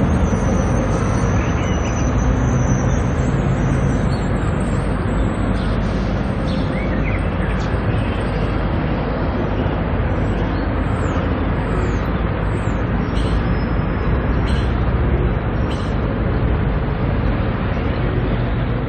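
Street ambience: a steady rumble of traffic, with a few short high bird chirps over it.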